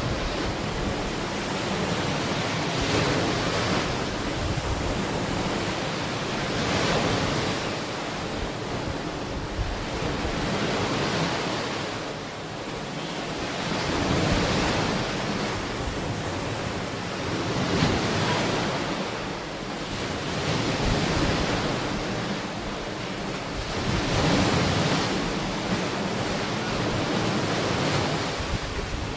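Ocean waves breaking and washing onto a shore, swelling and falling back every few seconds, with some wind on the microphone.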